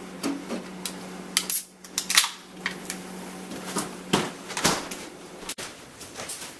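A series of about ten irregular sharp clicks and knocks, like small hard objects being handled, over a steady low hum; the loudest comes a little after two seconds in.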